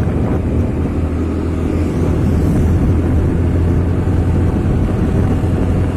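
Vehicle engine and road noise while driving: a loud, steady low rumble.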